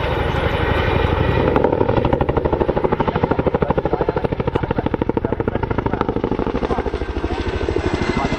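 RAF Boeing CH-47 Chinook tandem-rotor helicopter banking round in a wingover, its rotors giving a loud, rapid, even beat of blade slap that sets in strongly about a second and a half in.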